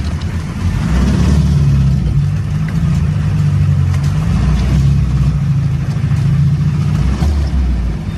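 A motor vehicle's engine running with a steady low drone, growing a little louder about a second in.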